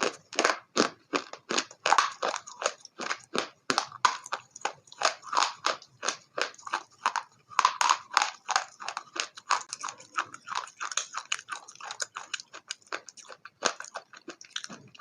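Crunchy food being bitten and chewed: a quick, uneven run of sharp crunches, several a second.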